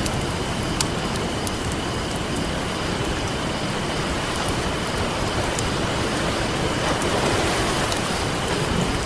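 Campfire crackling with scattered sharp pops over the steady wash of ocean waves, a wave swelling a little louder about seven seconds in.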